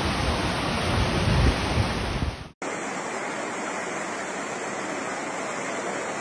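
Rushing floodwater: a loud, turbulent rush with a heavy low rumble that cuts off abruptly about two and a half seconds in. A steadier, quieter rush of water follows.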